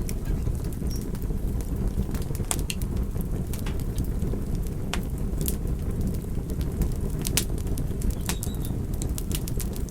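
Wood fire burning: a steady low rush of flames with frequent, irregular sharp crackles and pops.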